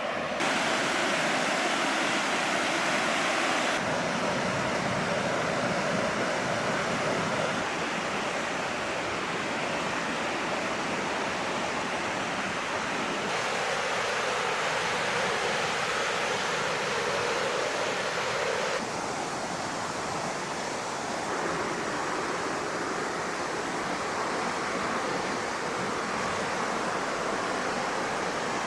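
Rushing white water of a river running high after rain, a steady noisy rush whose tone and level change abruptly several times.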